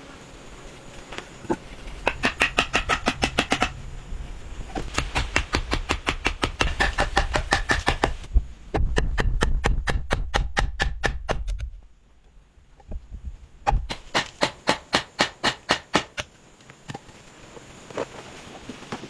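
Hand woodworking: runs of rapid, evenly spaced strokes on wood, about eight a second, in four bursts with short pauses between.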